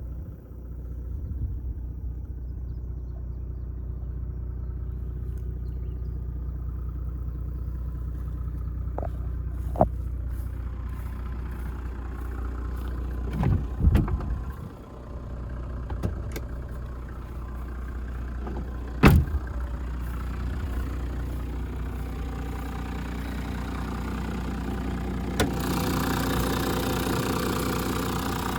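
Toyota Land Cruiser 100 Series straight-six turbo diesel engine running steadily, with a few sharp knocks along the way and the sound getting louder and noisier near the end.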